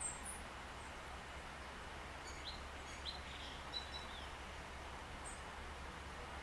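Faint, scattered short chirps from small birds, a few near the start and a cluster in the middle, over a steady outdoor background hum.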